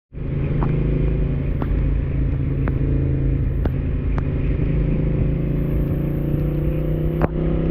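Honda Africa Twin motorcycle engine running steadily at a constant pitch while riding, with a low rumble underneath. A few sharp ticks are scattered throughout, the strongest about seven seconds in.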